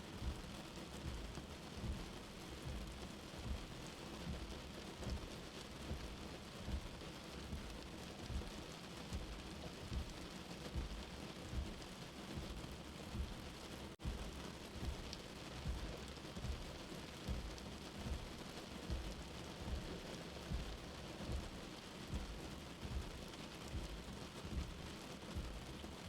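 Steady rain with a soft, low heartbeat thumping about every one and a half seconds. The sound drops out for an instant about fourteen seconds in.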